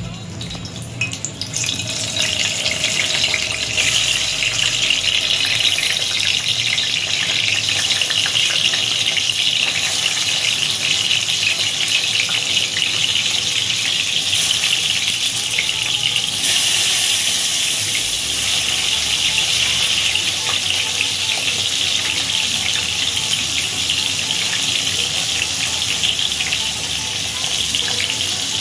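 Stuffed ridge gourd pieces sizzling in hot oil in a stainless steel kadhai as they are laid in one by one. The steady hiss sets in about a second in and grows louder a little past halfway as more pieces go into the oil.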